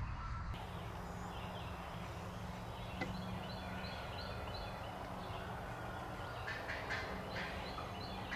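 Eastern wild turkeys calling, with a cluster of sharp calls in the latter part. A string of short, evenly spaced high chirps from another bird runs through the middle.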